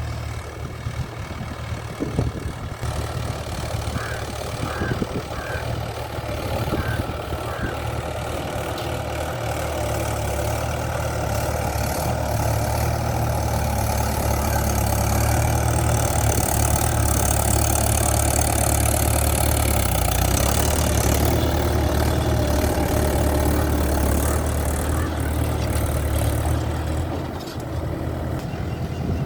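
Farm tractor's diesel engine running steadily while ploughing. It grows louder through the middle and eases off near the end.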